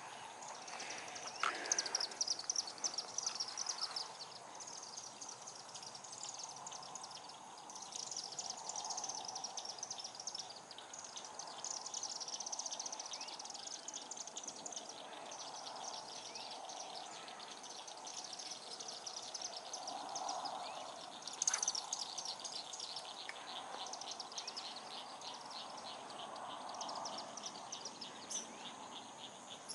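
Outdoor evening chorus of birds and insects: high, rapid chirping trills that go on without a break, loudest in the first few seconds, over a fainter lower drone that swells and fades.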